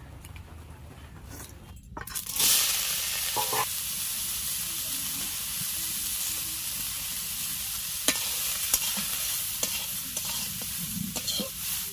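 Soya chunks sizzling in hot oil in a kadhai, starting suddenly about two seconds in and running steadily, while a metal spatula stirs them, with a couple of sharp clinks against the pan.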